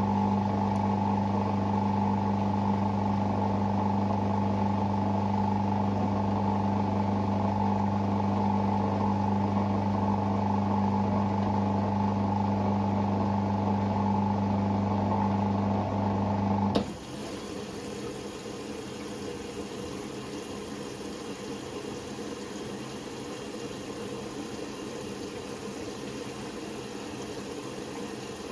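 Hoover Six Sportswear 1300 washing machine running with a steady hum. About two-thirds of the way through it stops abruptly with a click, leaving a quieter steady whirr.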